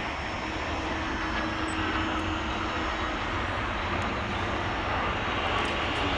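Airbus A350-1000's Rolls-Royce Trent XWB jet engines at take-off power, a steady broad rush of engine noise that grows slightly louder.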